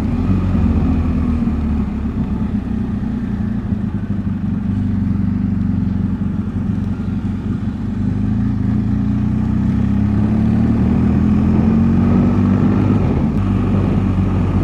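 BMW boxer-twin motorcycle running steadily under way, its engine note rising a little about two-thirds of the way through.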